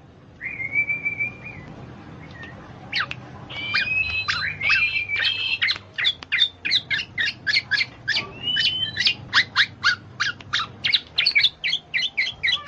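Birds chirping and calling: a short held whistle about half a second in, then a run of quick chirps, about three or four a second, through the second half.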